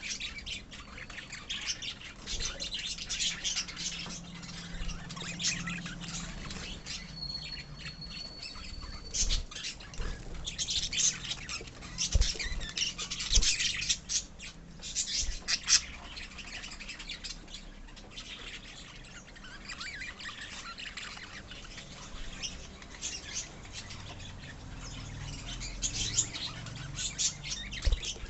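A lovebird colony chattering: many overlapping high chirps and squawks with no break, and one steady held whistle lasting about two seconds, starting about seven seconds in.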